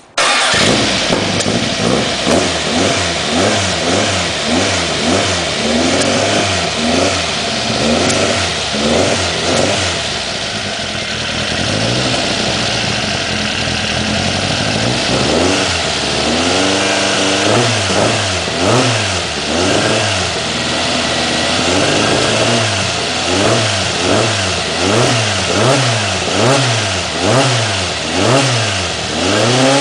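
Air-cooled VW 2276 cc flat-four with an FK-44 cam and Weber 48 IDA carburettors, running and being revved in repeated blips. It holds steadier for a few seconds in the middle, then is revved in quick rises and falls about once a second.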